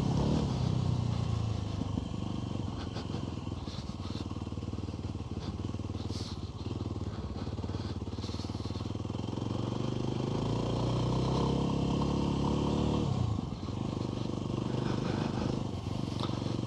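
Off-road motorbike engine running under way, its revs rising and falling with the throttle. The revs climb and hold for a few seconds, then drop off sharply about thirteen seconds in.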